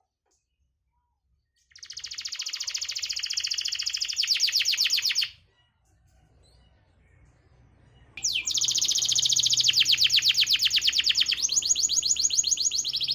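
Domestic canary song used as a lure to prompt reluctant canaries to sing. It is a long, very fast, even trill starting about two seconds in and breaking off about five seconds in. After a short pause comes another long fast trill that steps to a new pitch twice.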